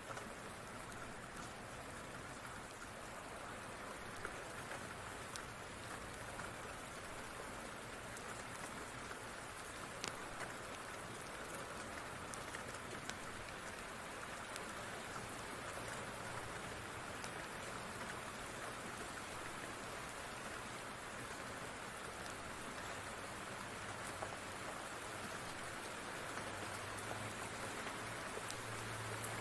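Steady rain falling, with scattered sharp ticks and pops over it. A low rumble of distant thunder builds near the end.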